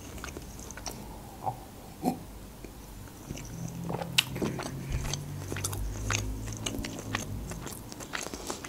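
A person chewing food close to the microphone, with many small scattered mouth clicks and crackles.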